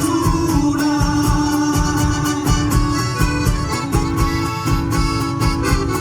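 Live Chilote folk music: plucked guitars over a steady beat.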